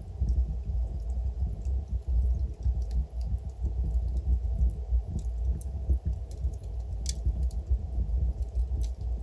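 Wood fire burning in a fireplace: a low, fluttering rumble of flames with scattered small crackles, and one sharper pop about seven seconds in.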